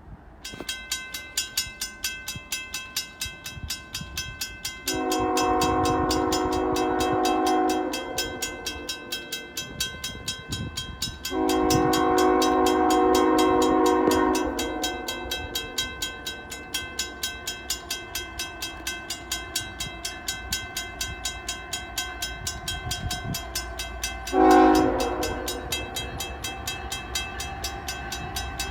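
Locomotive air horn of a CN ES44AC blowing the grade-crossing signal: two long blasts and a short one, with the final long blast starting at the very end, as the train approaches the crossing. A warning bell dings steadily throughout, a few strikes a second.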